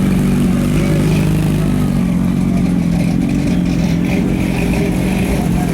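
Engine of a 1932 Chevrolet roadster hot rod running steadily at low revs.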